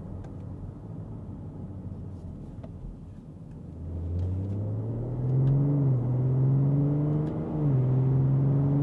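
BMW X5 45e's B58 turbocharged inline-six, with a valved cat-back exhaust and OPF-delete mid-pipe, heard from inside the cabin accelerating at about half throttle from low revs. The engine note is low at first, then rises from about four seconds in. It drops at two upshifts, about six and about seven and a half seconds in, and climbs again after each one.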